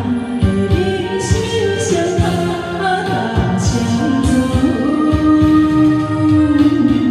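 A Taiwanese Hokkien pop song sung over a backing track with a steady beat, with one long held vocal note about five seconds in.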